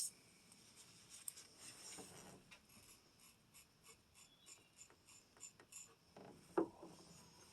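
Faint strokes of a knife blade being sharpened, a run of short rubbing passes in quick succession, with one louder knock near the end.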